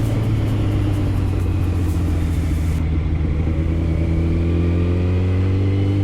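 Yamaha FZ1 inline-four motorcycle engine running under way, its pitch climbing slowly through the second half, with wind hiss that drops away about three seconds in.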